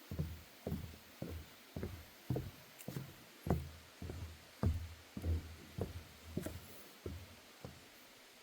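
Footsteps on a wooden boardwalk deck: steady walking-pace thuds, just under two a second, each with a short hollow boom from the boards, fading slightly near the end.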